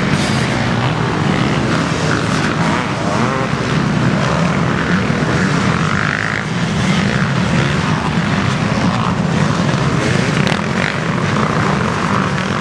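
Motocross bike engines racing, a loud steady drone with revs rising and falling.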